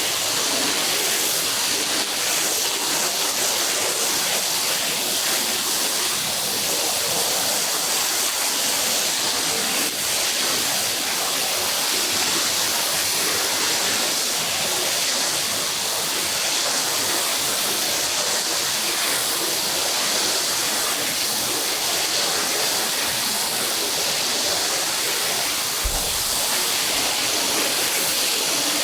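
Steady rush of a water spray rinsing a soaked carpet, an even hiss with no let-up. A single brief low thump comes near the end.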